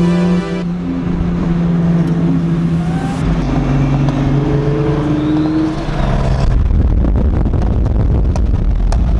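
Car engine revving and pulling, its pitch rising and falling. About two-thirds of the way through it turns into a louder, rougher low rumble.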